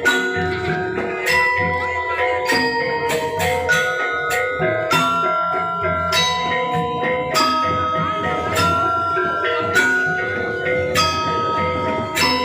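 Balinese gamelan playing: bronze metallophones and gongs are struck, and their notes ring on. Strong accented strokes come about every second over a dense, steady layer of tuned metal notes.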